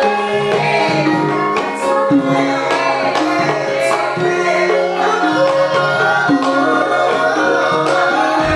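Javanese gamelan ensemble playing a Banyumasan piece: ringing bronze metallophones and gongs, kendang hand-drum strokes and a singer's voice over them.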